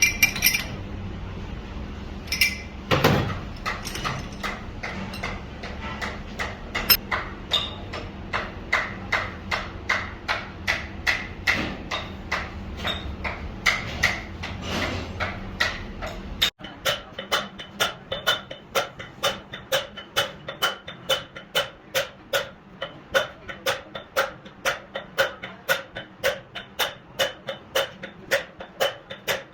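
Hammer blows on metal in a steady rhythm of about two strikes a second over a low workshop background. About halfway through, the sound changes abruptly to faster, ringing strikes of about three a second.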